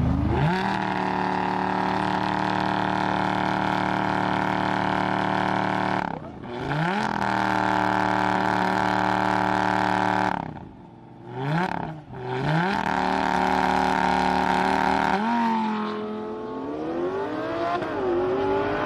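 Car engine held at steady high revs. Its note drops and climbs back twice, then it is revved up and down near the end.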